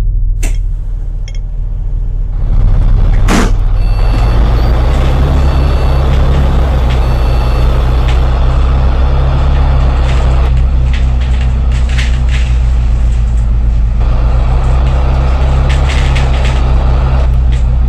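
City bus's diesel engine running, heard from on board: it eases off briefly, then picks up and pulls steadily from about two and a half seconds in. A sharp click comes just after.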